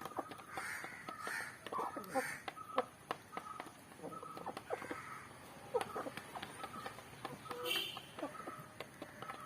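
Aseel chickens clucking in short, broken calls, with scattered sharp clicks and other bird calls mixed in.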